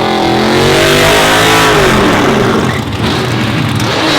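Race truck engine revving, its pitch rising and falling, then turning rougher and noisier about halfway through.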